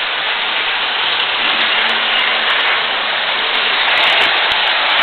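Model electric train running steadily on its track: an even rolling whir of wheels and motor with scattered light clicks.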